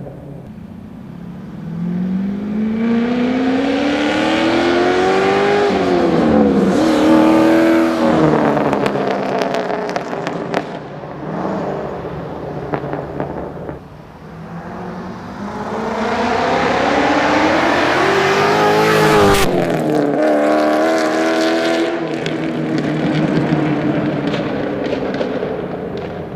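5.3 L LS V8 running through homemade headers and exhaust, accelerating hard twice. Each time its note climbs steeply in pitch, drops sharply at a gear change, then holds a steadier pitch and eases off.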